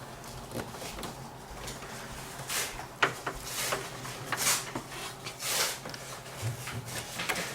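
Computer front-panel wires and connectors being handled: intermittent light rustling, with one sharp click about three seconds in.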